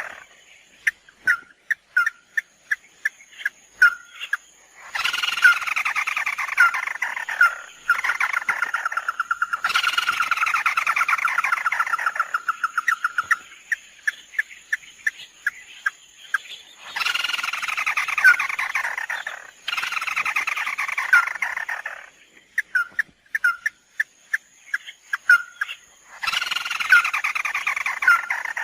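Repeated calls of the bird known in Vietnam as mắt đỏ: spaced sharp notes that quicken and run into long descending trills, the bout returning about four times.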